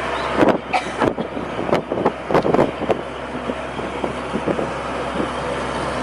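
Hino truck's diesel engine idling steadily, with a quick run of knocks and clicks over the first three seconds.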